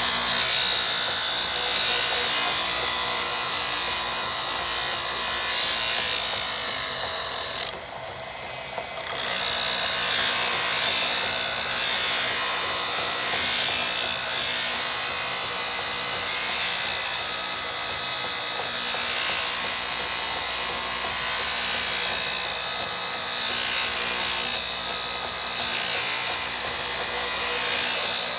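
Power grinder sharpening a steel woodturning tool: a steady motor hum with the high hiss of metal on the wheel, briefly easing off about eight seconds in before grinding resumes.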